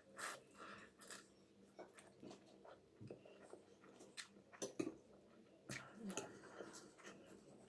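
Faint chewing of noodles with small mouth noises and a few soft clicks scattered through, like a fork touching the bowl.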